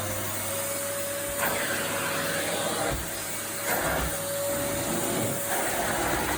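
A 2001 Numatic Henry vacuum cleaner running steadily just after being switched on: a steady rush of air with a motor whine, the level swelling briefly a few times. The motor runs very nicely.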